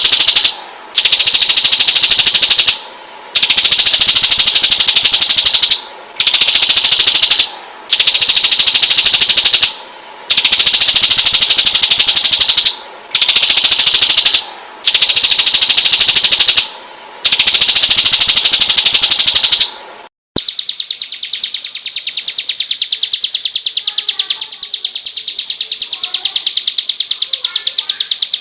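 Recorded songbird song: loud, very rapid trills in phrases of about two seconds with short breaks between them. About two-thirds of the way through it cuts briefly to a different, unbroken rapid trill with faint chirps underneath.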